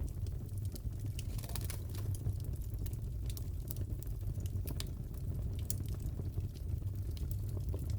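Wood fire crackling in a fireplace: a steady low rumble of flames with frequent irregular sharp pops and snaps.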